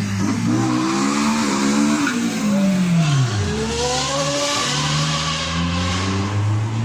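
Ferrari 458 Challenge's V8 with a straight-pipe exhaust, loud and revving. The engine's pitch falls steeply about two to three seconds in, then climbs again and holds.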